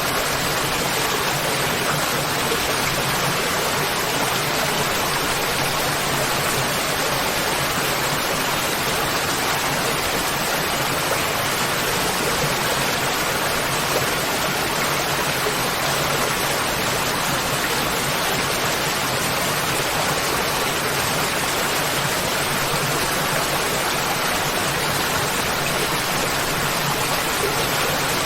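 Waterfall: falling water rushing steadily, an even roar with no breaks or changes.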